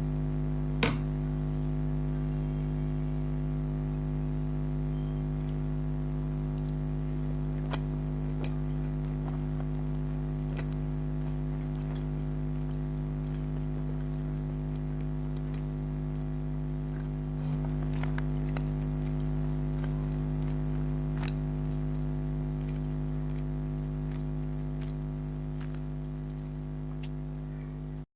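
Eating sounds: scattered soft clicks and smacks of chewing and handling chicken karahi and naan, with a sharper click about a second in, over a steady low electrical hum. The sound cuts out briefly at the very end.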